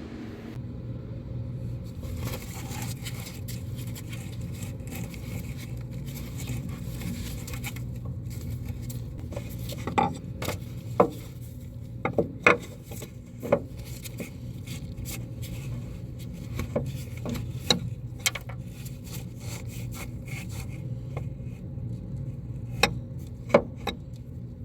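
Scattered sharp metal knocks and clanks with some scraping, from hand work on a forage harvester header's auger while fitting replacement auger fingers, over a steady low hum.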